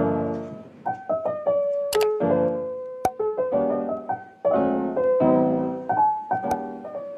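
Piano music: slow chords and single notes struck about once a second, each one fading away.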